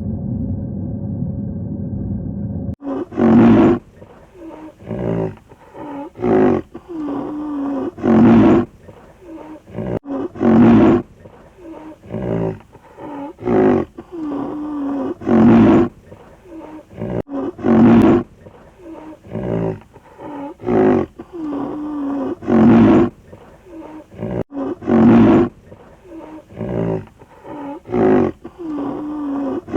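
A large farm animal calling over and over: loud, pitched calls about every two and a half seconds, with softer calls between them. A low steady rumble is heard until the calls start, about three seconds in.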